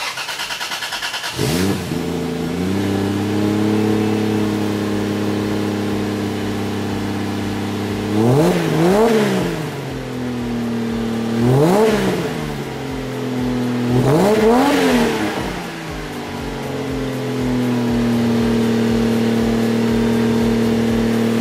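Turbocharged Lexus IS300's straight-six engine being started: cranking for about a second, catching with a flare and settling to idle. It is then revved three times, each rev brief and dropping straight back, before returning to a steady idle.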